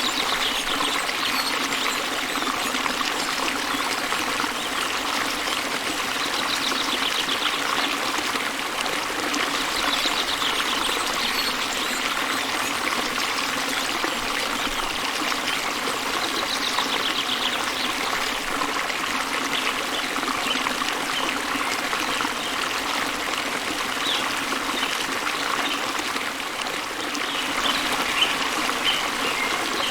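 Small waterfall splashing into a gently flowing river: a steady rush and trickle of water.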